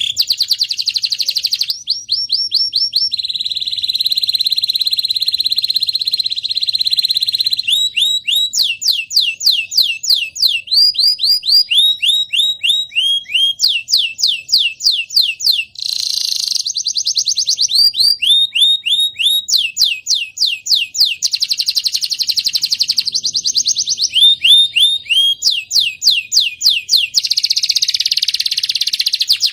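Domestic canary singing a long, continuous song. It is made of rapid trills, runs of quick downward-sweeping notes repeated several times a second, broken by sustained buzzing rolls a few seconds in, around the middle and near the end.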